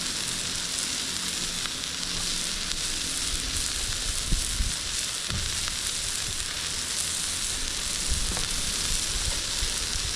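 Burgers sizzling steadily on a grill, with a few low knocks about four seconds in.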